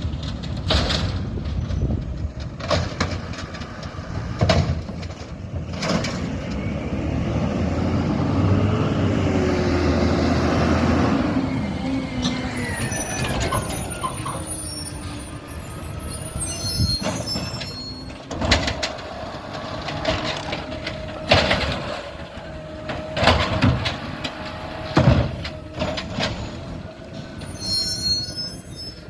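Garbage truck at work: its diesel engine revs up and falls back over several seconds, amid repeated metallic bangs and clanks.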